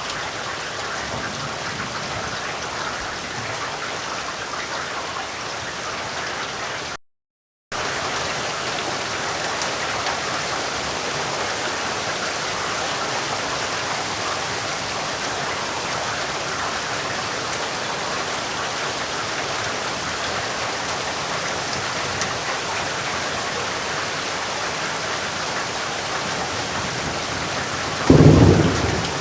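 Steady rain falling, an even dense hiss, broken by a brief total dropout to silence about seven seconds in. Near the end a loud, low rumble of thunder breaks in.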